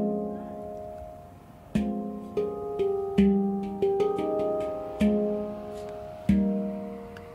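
F minor handpan played by hand: single struck notes that ring and fade, a pause of lingering ring, then a run of notes about half a second apart, slowing to two last strikes that ring out.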